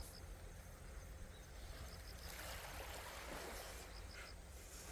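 Quiet beach ambience: a soft wash of sea water swells about two seconds in and fades, with an insect chirping faintly in short triple pulses every couple of seconds.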